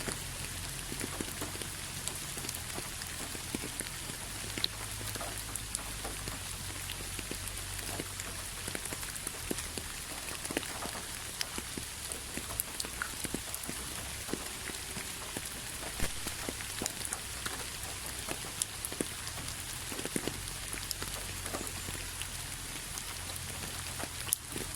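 Steady rain falling on a hard surface, an even hiss with many individual drops ticking and pattering.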